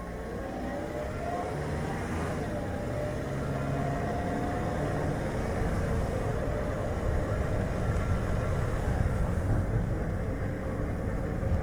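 Chevrolet Spark light car on the move: engine and tyre road noise with gusting wind on the microphone. The engine note rises over the first couple of seconds, then holds steady.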